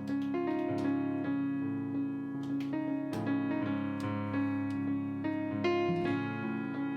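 Background piano music: a slow melody of sustained notes over low chords.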